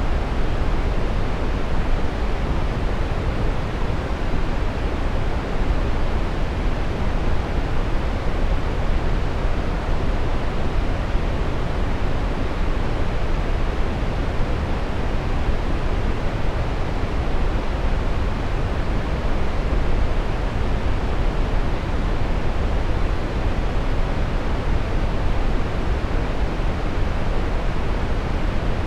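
Steady brown noise: an even, deep rushing hiss, strongest in the bass and dull at the top, unchanging throughout.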